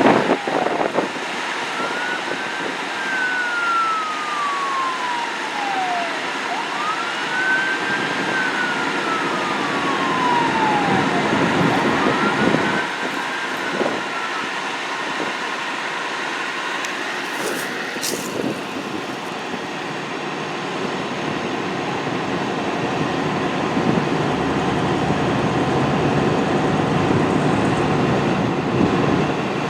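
Fire engine siren wailing in three long sweeps, each rising quickly and then falling slowly away. After that the siren stops and the engine and road noise grow steadily louder as the fire engine comes closer.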